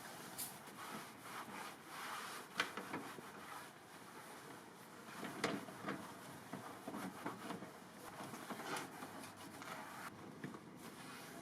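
Irregular hand scrubbing against a surface, with uneven strokes and a few light knocks.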